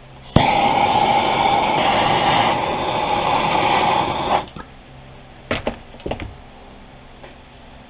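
Handheld MAP gas torch lit with a click and burning with a steady hiss for about four seconds, then shut off, heating the aluminium chaincase so a bearing can be dropped in. Two light clicks follow a second or two later.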